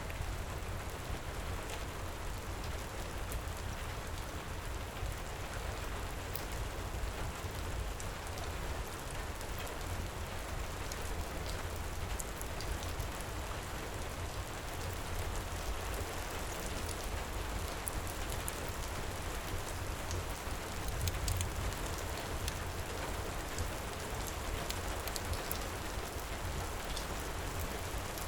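Heavy rain pouring steadily, with a deep rumble beneath it. Scattered small sharp crackles from a wood fire sound over the rain.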